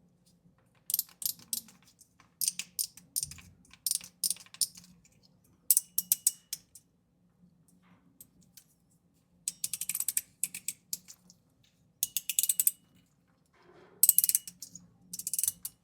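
Metal fidget toy being worked by hand, giving bursts of rapid, sharp ratcheting clicks, each burst lasting about half a second to a second, with short pauses between them.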